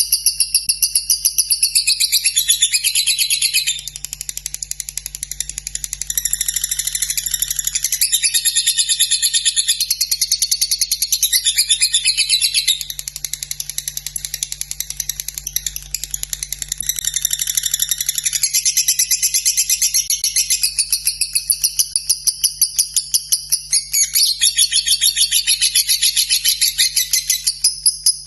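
Lovebird singing its long, unbroken 'ngekek' chatter: a fast, rapidly pulsed, high-pitched trill that runs on without a break, shifting in pitch and loudness every few seconds.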